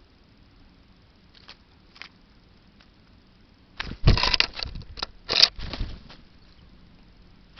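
A burst of rustling, scratching and knocking close to the wildlife camera's microphone, starting about four seconds in and lasting about two seconds, from an animal moving at the feeding spot; a few faint clicks come before it.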